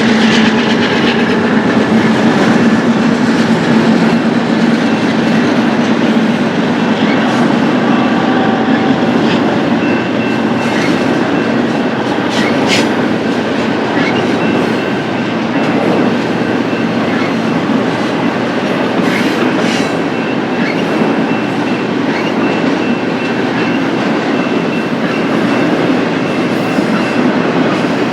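A BNSF freight train's cars rolling past at a steady loud level, their wheels clicking over the rail joints now and then.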